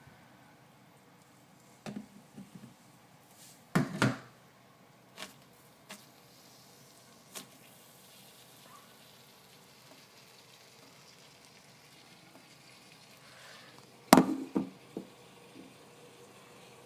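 Scattered knocks and taps of objects being handled and set down on a hard surface while ingredients are prepared, with a few loud bumps about 4 seconds in and a quick cluster of them near the end.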